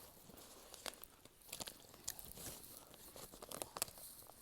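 Faint crunching and chewing of a crispy Thai fish-strip snack: irregular sharp crackles spaced unevenly.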